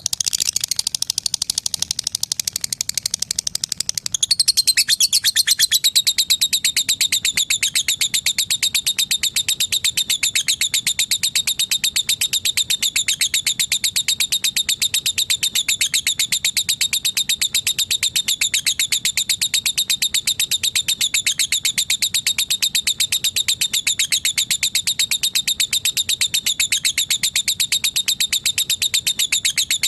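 Lovebird giving a long, unbroken run of rapid high-pitched chattering notes, many to the second, growing louder about four seconds in, with a slight dip in pitch every couple of seconds.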